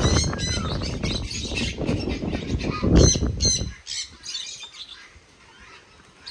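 A parrot squawking and chirping in short high calls over loud scraping and crunching of soil being worked. The soil noise stops abruptly about four seconds in, leaving only the occasional parrot calls.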